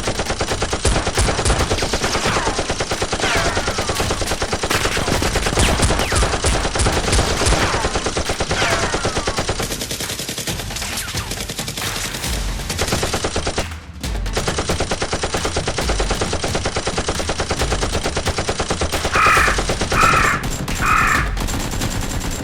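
Sustained rapid automatic gunfire, a dense stream of shots with descending whistling tones mixed in. Near the end come three short, higher-pitched bursts.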